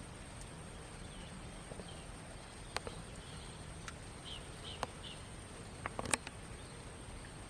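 Outdoor ambience with a steady high-pitched insect drone, a few short chirps, and several sharp clicks about three, five and six seconds in.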